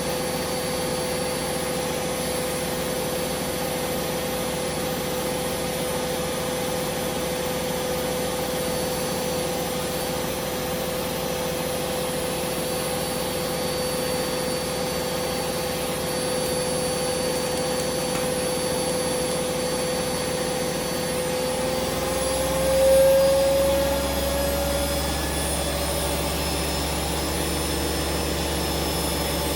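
Hoover Vision Dynamic washing machine spinning at high speed, its motor giving a steady whine. About 22 seconds in the whine rises in pitch and briefly swells louder, and a deep rumble sets in after it.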